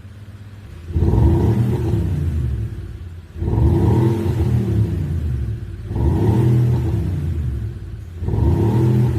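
SsangYong Korando Sports with an Xhaust electronic active sound system putting out a synthesized V8-style exhaust note: four throttle blips, each rising and falling in pitch, about two and a half seconds apart.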